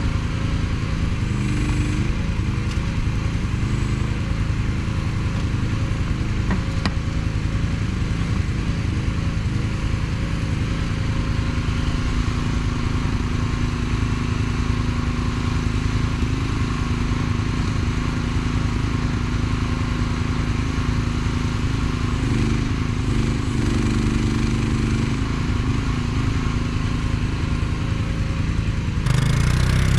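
Mini excavator engine running steadily. Its note shifts for a few seconds about three-quarters of the way through, and it gets louder just before the end.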